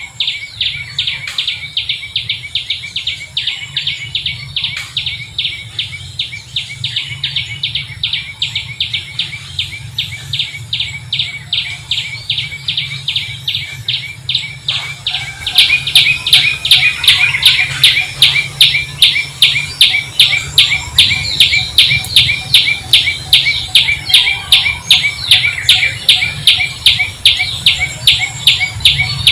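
Birds chirping in a fast, steady, evenly repeating rhythm of about four chirps a second, over a low steady hum. About halfway through, the chirping becomes louder and brighter.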